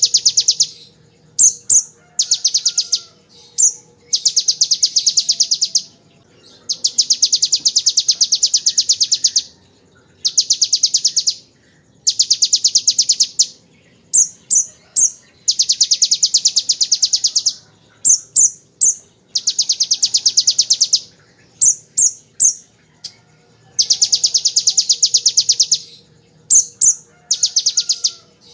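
Kolibri ninja sunbird singing in long, very fast rattling trills, each a second or two long. Between them it gives short, sharp chirps. The rattles are its imitation of a bar-winged prinia's (ciblek) machine-gun-like trill.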